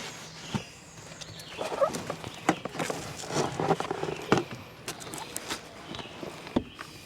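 Camping gear being handled and moved: irregular knocks, clunks and rustling, with footsteps, busiest in the middle.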